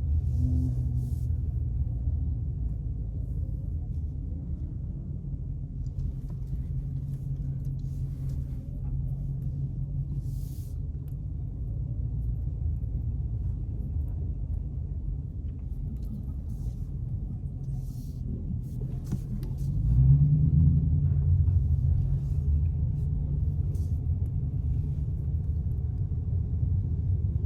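Car engine running at low speed, a steady low rumble as the car creeps along, with a short rise in revs about 20 seconds in.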